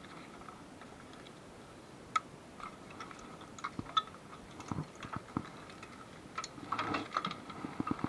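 Scattered light clicks and small knocks of hand tools and metal parts being handled during engine-removal work, coming thicker and faster in the last couple of seconds, over a faint steady high hum.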